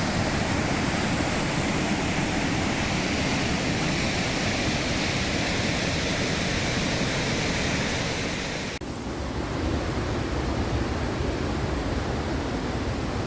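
Steady rush of flowing water. About nine seconds in it dips and cuts, and comes back with less hiss at the top.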